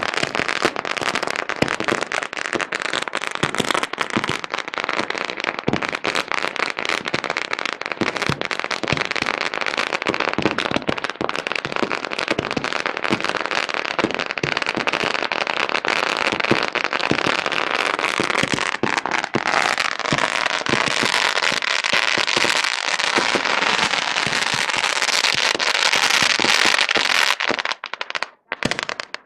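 Rolls of firecrackers going off in an unbroken string of rapid bangs and crackles, which grow denser and hissier past the middle. They stop abruptly just before the end.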